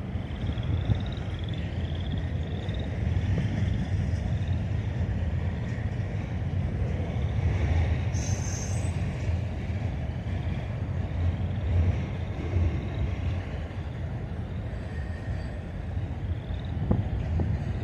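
A train rolling past with a steady low rumble, with a short hiss about eight seconds in.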